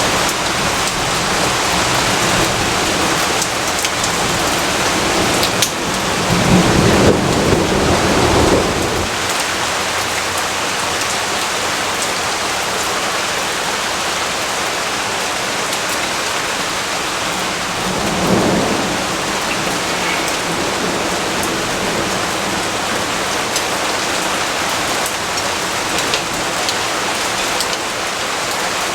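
Steady heavy rainfall, an even hiss of rain on surfaces. A low rumble of thunder swells about six seconds in and lasts a few seconds, with a fainter rumble around eighteen seconds in.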